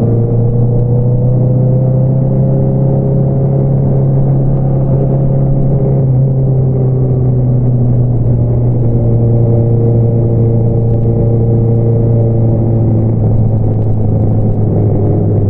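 2022 Honda CBR650R inline-four engine through an Akrapovič single-outlet exhaust, running at a steady engine speed with a constant, unchanging exhaust note.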